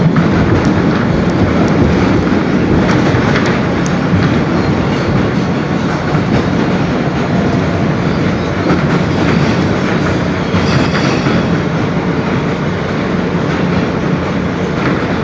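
Inside an R160B New York subway car running at speed: a steady loud rumble of wheels on rail, with a few sharp clacks over rail joints in the first few seconds. A faint high whine comes in briefly about ten seconds in.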